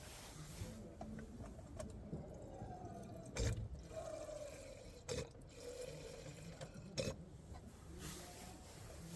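Campfire burning: a few sharp crackling pops over a faint, wavering whistle from the burning wood.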